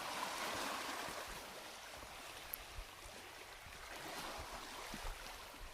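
Waves on the lake washing on the shore: a steady rushing, slightly stronger in the first second or two.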